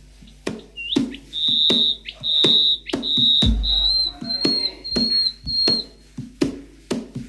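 A songbird singing a run of high whistled notes: a few long held notes, then shorter slurred ones about two a second. Sharp clicks sound throughout.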